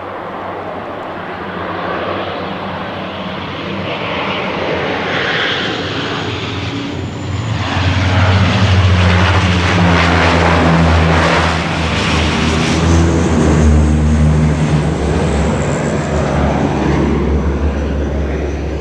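Twin-turboprop CL-415 water bomber flying close by, its propeller and engine drone building over about eight seconds to a loud, steady rush, then staying loud.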